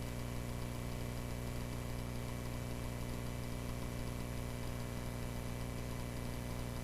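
Steady drone of the Cessna 140A's piston engine heard through the cockpit intercom, an even low hum with a hiss above it.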